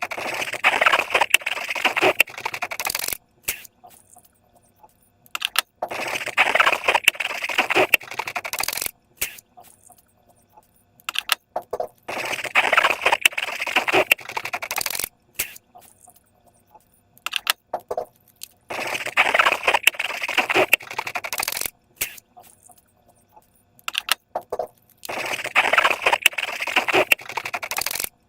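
Slime being squished and worked by hand, a dense crackling and clicking in bursts of about three seconds, with near-quiet pauses between them, five times over.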